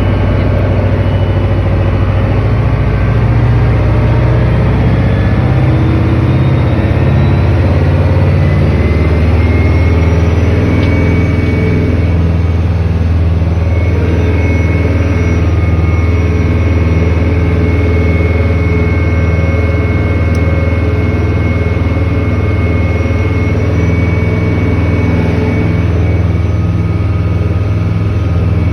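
Boat motor running loud and steady. A whine climbs in pitch over roughly the first ten seconds, then holds level.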